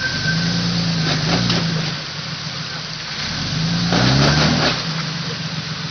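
Jeep Cherokee engine revving twice under load as it tries to climb past a boulder. The second push, about four seconds in, is louder and climbs higher in pitch before it drops back.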